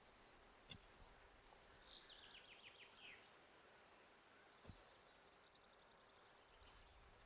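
Faint songbirds in quiet outdoor air: a short run of descending chirps about two seconds in, and a rapid high trill near the end. Two faint clicks come between them.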